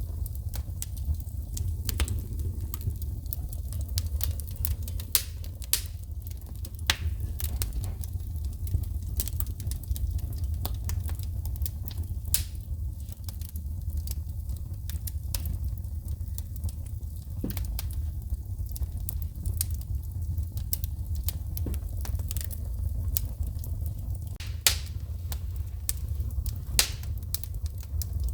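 Wood fire in a fireplace crackling, with sharp pops and snaps of shooting sparks at irregular intervals, a few much louder than the rest, over a steady low rumble.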